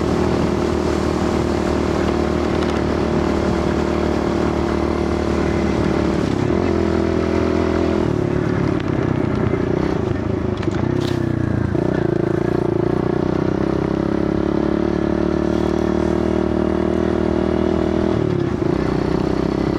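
Kawasaki KLX110 pit bike's small four-stroke single-cylinder engine running under way, with the engine pitch changing several times along the way.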